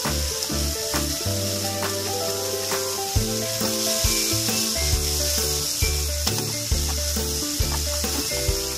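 Beef, lotus root and shimeji mushrooms sizzling steadily in a frying pan as they are stir-fried with tongs, over background music.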